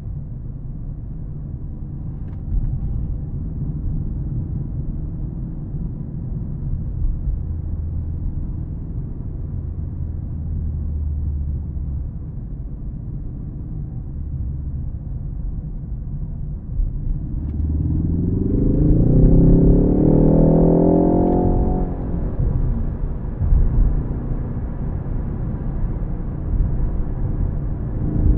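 Ford Focus ST engine and road noise: a steady low rumble while cruising. A little past halfway the engine pulls hard, its note rising for about four seconds before lifting off, and it starts climbing again near the end.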